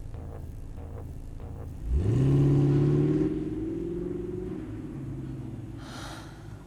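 Car engine revving up sharply about two seconds in as the car accelerates away, then easing back to a steady run. A brief whoosh comes near the end.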